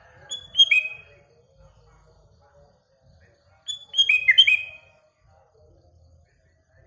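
Sooty-headed bulbul (kutilang) singing: two short loud phrases of quick, downward-sliding whistled notes about three seconds apart. Fainter chatter of other birds runs beneath.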